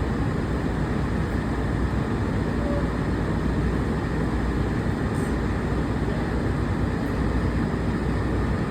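Steady low rumble and hum inside a monorail car.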